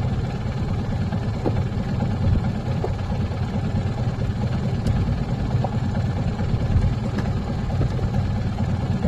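Coastal fishing boat's engine running steadily, a constant low drone.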